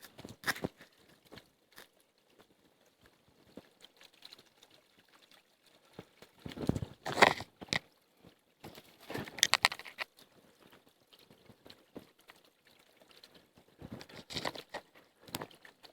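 Irregular bursts of crunching and rustling a few seconds apart, loudest about halfway through, with quiet stretches between.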